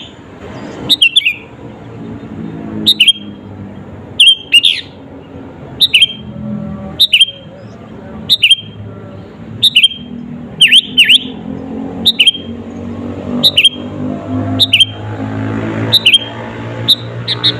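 Sooty-headed bulbul (kutilang) calling: short, sharp whistled notes, each dipping and rising in pitch, repeated about once a second, sometimes as a quick pair. A low steady hum runs underneath.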